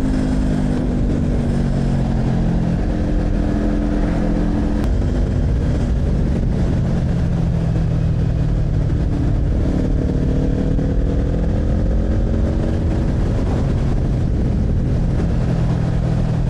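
Kawasaki Z400 parallel-twin engine under way, its note sinking at first, stepping suddenly at about five seconds, climbing again from about ten seconds and dropping back a little after thirteen, over a steady low rush of wind and road noise.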